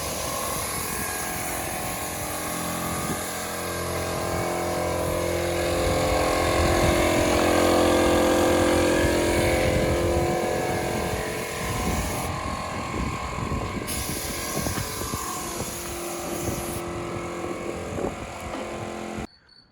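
A vehicle engine running steadily, growing louder toward the middle and easing off again, then cut off abruptly near the end.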